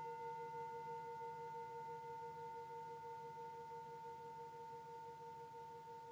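A struck singing bowl ringing on, several steady tones sounding together and fading slowly, with a gentle pulsing wobble in the lower tones.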